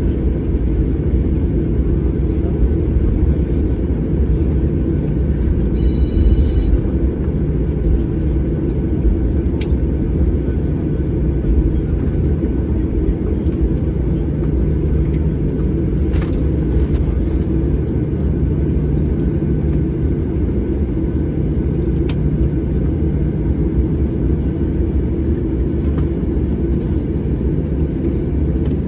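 Steady low rumble of a jet airliner's engines and airflow heard inside the passenger cabin after landing.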